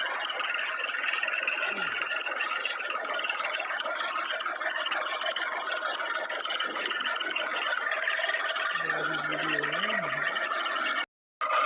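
Heavy diesel machinery running steadily, with a brief low wavering tone about nine seconds in. The sound drops out for a moment near the end.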